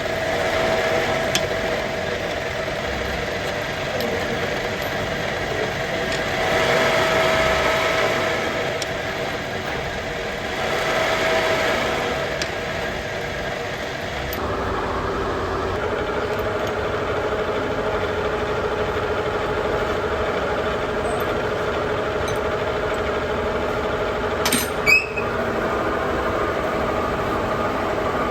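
Workshop machinery running with a steady, engine-like hum. It swells louder twice and changes pitch about halfway through, and a brief burst of sharp metallic clicks comes near the end.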